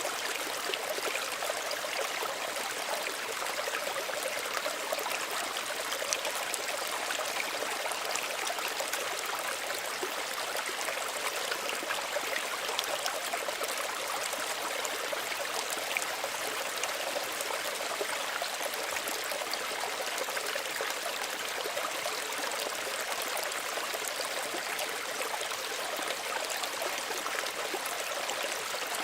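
Small stream running steadily over stones, a continuous light babble and trickle with no deep rush.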